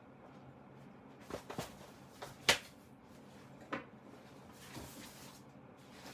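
Handling noise: a few sharp clicks and knocks, the loudest about two and a half seconds in, followed by a brief soft rustle.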